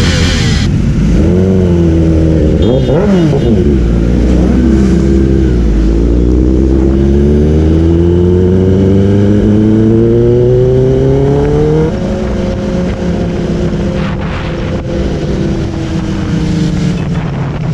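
A motorcycle engine blipping up and down, then pulling in one long steady rise in pitch. About twelve seconds in it gets a little quieter, and the pitch levels off and slowly eases down.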